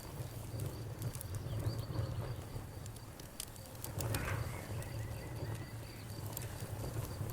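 Campfire crackling with scattered sharp pops over a low, steady rumble of burning wood. A cricket chirps in a steady pulsing rhythm alongside it.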